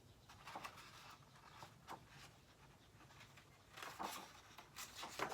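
Faint rustling and soft taps of a picture book's paper pages being handled, with two short soft hisses, the second near the end.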